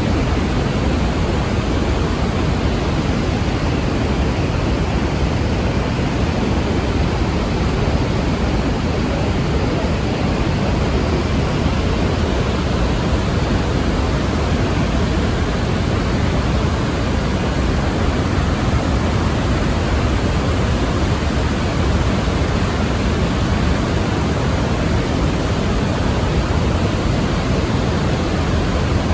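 The Iguaçu Falls' great waterfalls pouring without a break: a loud, steady rush of falling water.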